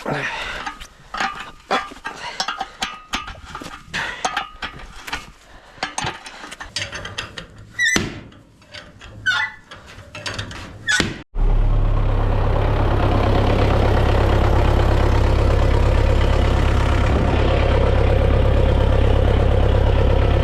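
Many irregular metallic clicks and knocks with a few short squeaks, then an abrupt cut about eleven seconds in to a tractor engine running steadily.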